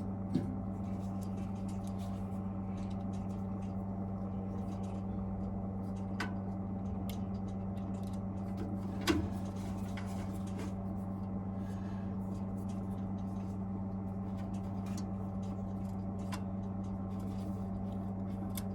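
Steady electrical hum with scattered small clicks and taps as a boiler's ignition electrode assembly is handled and fitted, and one sharper knock about nine seconds in.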